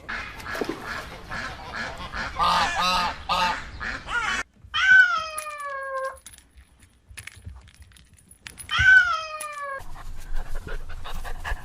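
Animal calls: a busy stretch of overlapping short calls, then two long calls that each fall in pitch, about four seconds apart.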